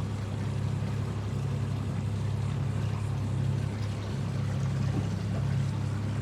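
Motorboat engine running steadily at low cruising speed, a constant low hum with water noise under it.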